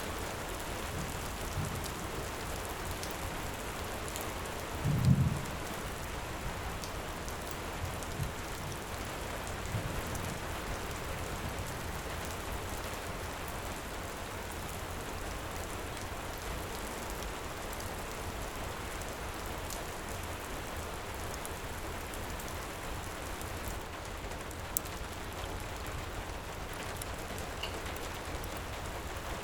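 Heavy rain falling steadily. A brief low boom of thunder about five seconds in is the loudest moment, with a few fainter low thuds before and after it. Now and then a sharp crackle comes from a wood fire.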